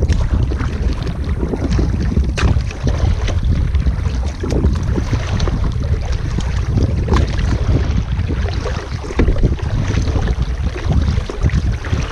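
Kayak paddling on a lake: paddle strokes splashing in the water under heavy wind rumble on the microphone, with a few sharp knocks.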